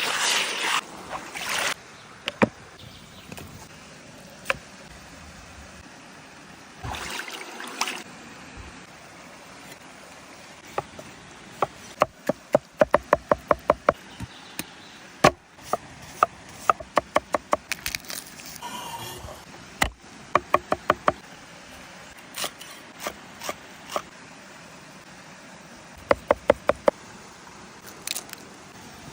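A knife chopping quickly on a cutting board in several short runs of about eight strokes a second, with single knocks in between: food being minced.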